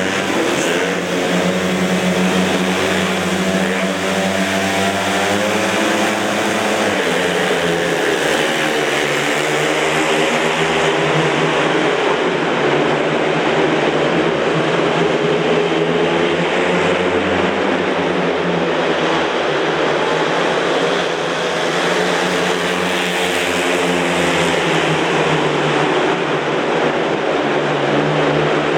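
Speedway motorcycles racing, several 500 cc single-cylinder methanol engines running together in a loud drone whose pitch swings up and down again and again.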